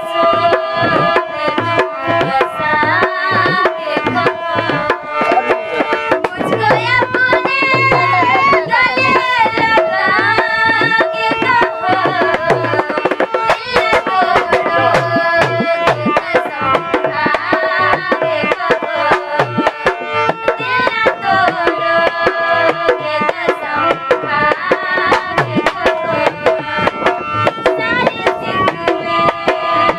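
Hindi song sung by a woman's voice over fast, continuous tabla-style hand-drum strokes.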